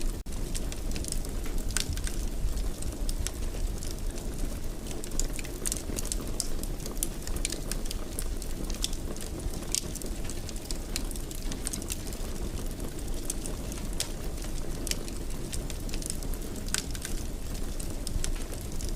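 Wood fire burning in a fireplace: a steady low rumble of flames with frequent irregular crackles and snaps.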